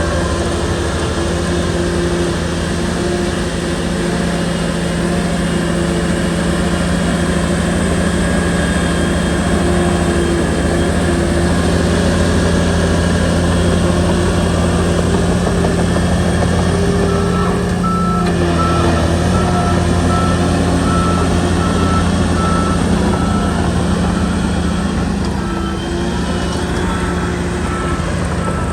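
Shantui bulldozer's diesel engine running steadily under load. In the second half the machine's reversing alarm beeps in repeated runs.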